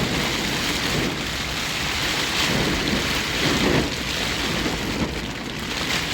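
Heavy rain beating on a tent, with strong wind gusting against it in surges.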